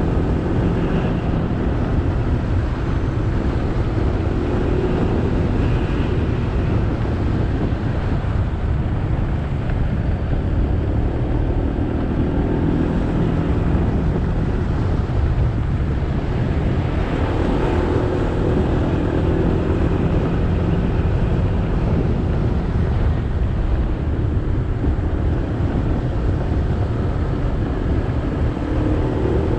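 Motorbike engine running steadily while riding, with road and wind noise on a helmet or bike-mounted action camera's microphone.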